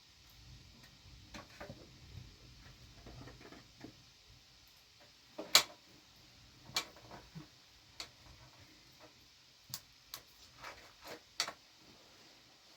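Scattered light clicks and knocks of small hard objects being handled, irregularly spaced, the sharpest about five and a half seconds in and a cluster of them near the end.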